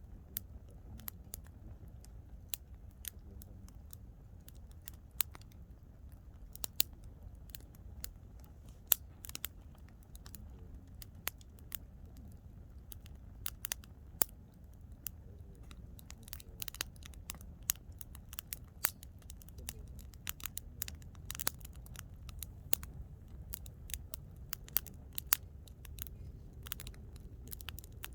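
Wood campfire crackling, with irregular sharp pops and snaps of varying loudness over a low steady rumble.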